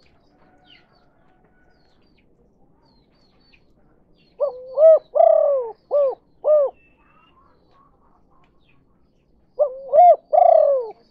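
Spotted dove (tekukur) cooing its 'kuk 2' call, the call type used as a lure to draw in wild doves: a phrase of about five hoarse coos, each rising then falling in pitch, a few seconds in, then another phrase starting near the end. Faint chirps of small birds in the quiet gaps.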